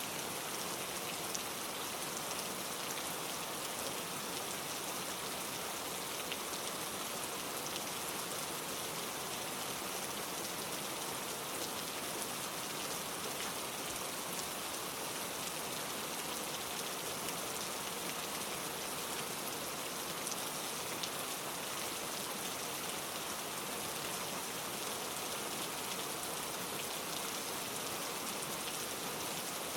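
Steady rain falling, a dense even patter of drops at a constant level.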